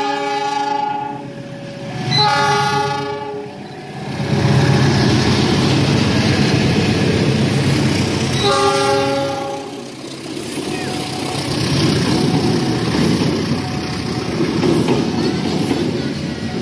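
A KAI diesel locomotive sounds its multi-tone horn three times: one blast ends about a second in, a second comes about two seconds in, and a third near the middle. From about four seconds in, the train passes close by, and the passenger coaches' wheels clatter over the rails.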